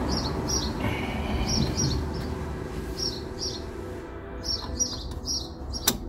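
A small bird chirping, short high calls repeated over and over over a low background rumble, with one sharp click near the end.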